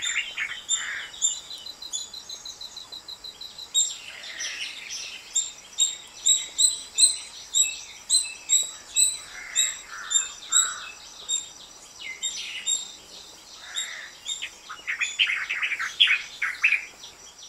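Several small birds chirping and calling: runs of short, repeated high chirps, with clusters of lower calls near the start, in the middle and a dense burst near the end.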